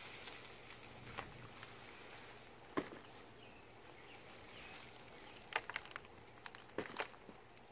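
Faint, scattered rustles and soft knocks of digging potatoes out of wood-chip-mulched soil, with a small cluster of clicks a little past halfway.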